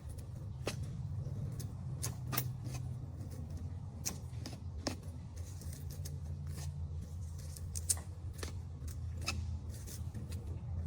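Scattered sharp clicks and snips, a dozen or more at uneven intervals, over a steady low hum.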